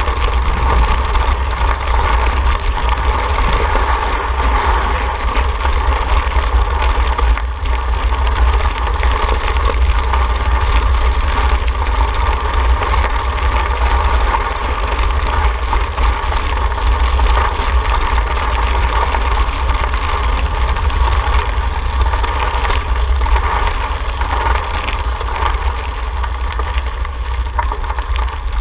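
Steady wind rumble on the microphone of a moving ride camera, with road noise over it.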